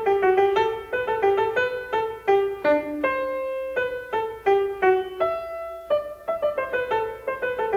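Background music: piano playing a quick run of single notes, slowing to a few held notes midway before the quick notes return.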